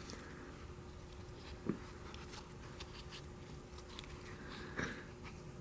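Faint handling noises: light rustles and small taps as pieces of a cut-open filter are picked over, with a soft knock about a second and a half in and a slightly louder one near the end.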